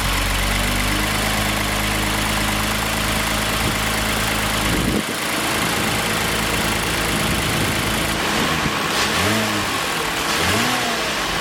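2020 Toyota Avalon TRD's 3.5-liter V6 idling steadily through its sport exhaust, then revved in two short throttle blips near the end.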